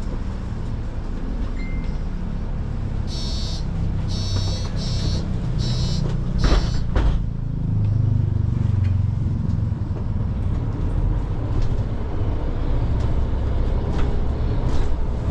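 A vehicle's low, steady rumble, with a run of five short hissing bursts about three to seven seconds in.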